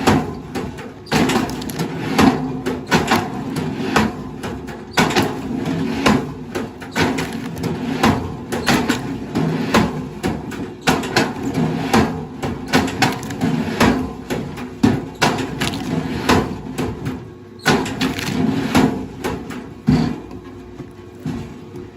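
Irregular knocks and clatter of wood over a running engine.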